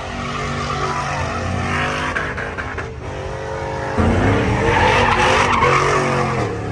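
Pickup truck engine revving hard with its tires spinning and squealing on pavement in a burnout. About four seconds in, the engine surges louder and climbs in pitch as the tire noise thickens.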